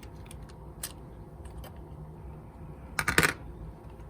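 Light clicks of small plastic parts being handled: one faint click about a second in, then a quick cluster of sharp clicks near the end.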